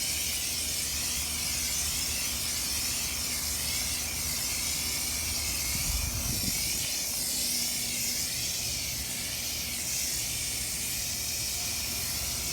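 Pressure washer spraying water onto a car: a steady hiss that wavers as the jet is swept back and forth.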